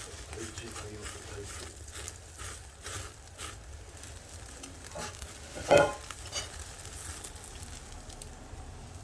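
Pork belly fat dripping into a wood fire, sizzling with scattered crackles and pops, and one brief louder sound a little past halfway.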